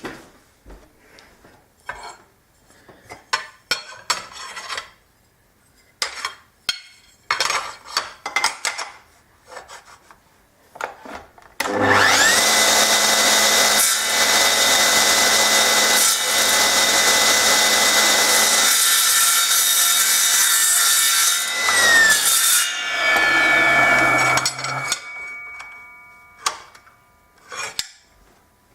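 Scattered clicks and rubbing of parts being handled, then an electric power tool spins up, runs steadily for about ten seconds with a held whine, and winds down, followed by more handling sounds.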